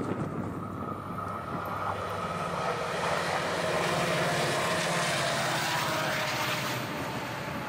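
New Mexico Rail Runner Express commuter train passing at speed: the diesel locomotive's engine drone and the rush of wheels on rail build to their loudest about four to six seconds in, with a faint falling pitch, then begin to fade.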